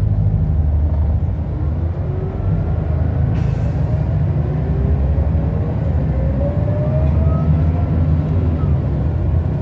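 Scania L94UB bus running with a loud, steady low rumble as it pulls away. A whine rises in pitch several times in a row through its ZF Ecomat automatic gearbox, and there is a brief hiss about three seconds in.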